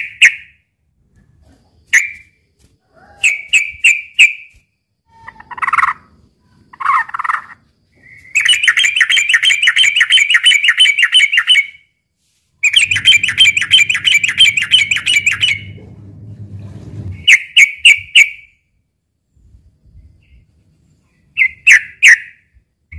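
Yellow-vented bulbul (trucukan) singing its aggressive 'fighting' song. It gives short bubbly phrases of clipped notes, with two longer runs of fast chattering notes in the middle of the passage.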